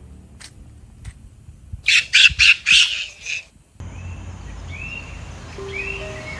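A bird giving a quick series of loud, rough calls about two seconds in. After a sudden change near four seconds, soft background music plays with bird chirps over it.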